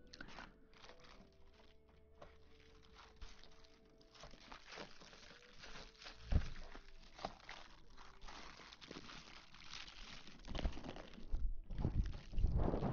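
Close-miked crinkling and crunching in irregular crackles, louder near the end, over faint background music.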